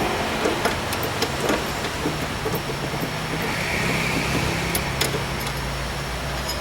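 Steady low mechanical hum of a running motor, with scattered light clicks and knocks of parts and tools being handled.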